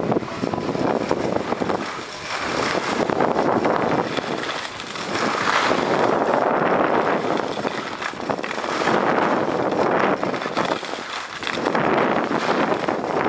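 Skis sliding and carving on packed snow, with wind rushing over the microphone; the noise swells and eases every few seconds, in time with the turns.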